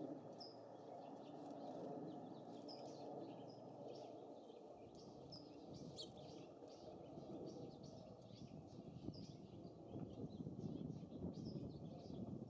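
Small songbirds giving many short, high chirps over a steady rush of wind, which gusts harder on the microphone in the second half.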